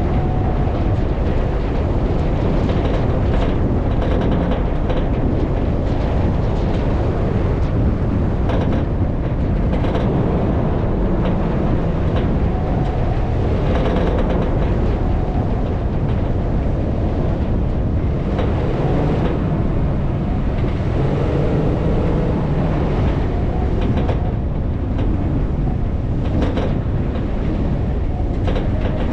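Steady low rumble of a vehicle driving off-road, with occasional short knocks and rattles.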